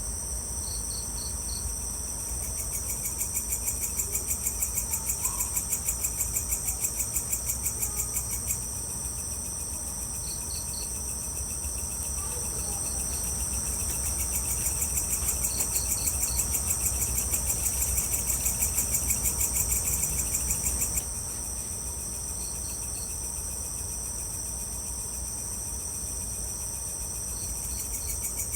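Evening insect chorus of crickets and other insects: a steady high-pitched hum with a fast pulsing trill that swells up twice for about six seconds each, and short groups of three high chirps every few seconds.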